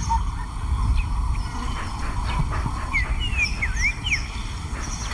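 Wild birds chirping in a short run of quick sliding calls about three seconds in, over a steady low rumble.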